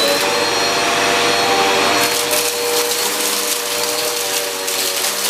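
Cheap upright vacuum cleaner running at full speed with a steady motor whine. From about two seconds in, a crackling clatter of coarse debris being sucked up through the nozzle rises over it.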